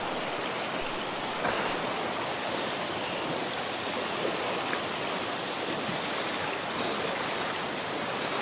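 Steady rain falling in the rainforest: a continuous, even hiss of water, with a brief rustle about a second and a half in and another near the end.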